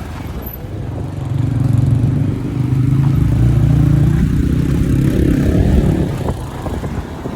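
A vehicle engine running under way, its pitch climbing gradually through the middle and then easing off again.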